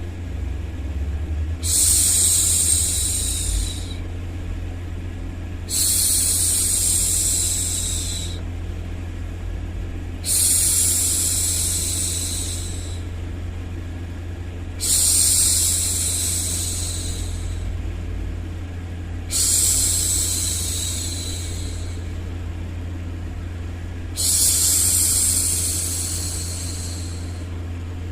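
A woman's voice shushing "shhh" to soothe a baby, six times, each shush starting sharply and fading over about two seconds, every four to five seconds. A steady low hum runs underneath.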